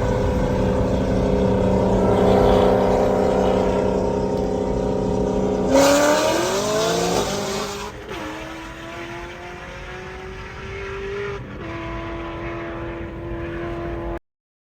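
High-horsepower street car engines running at a steady pitch, then about six seconds in a sudden loud burst of acceleration with the engine pitch climbing. After that a quieter, steady engine tone that drops in pitch once before the sound cuts off.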